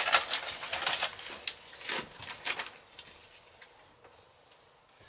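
Workbench handling noise: a quick run of clicks and scrapes of small metal parts, dying away about three seconds in.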